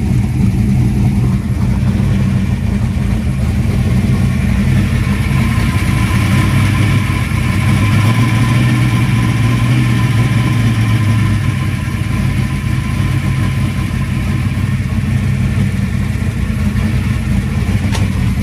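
Ford small-block V8 in a Fox-body Mustang, fitted with a new Trick Flow top end kit (cylinder heads and Stage 1 cam), idling steadily just after its first start-up, with a slight swell in the idle about eight seconds in.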